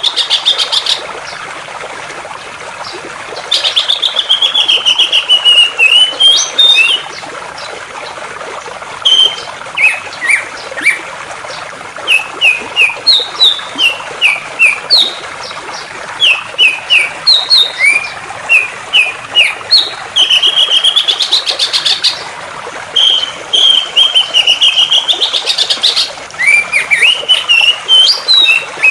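Songbird singing loud rapid trills, each lasting a few seconds, and runs of short whistled chirps, with pauses between phrases, over a steady rush of flowing water.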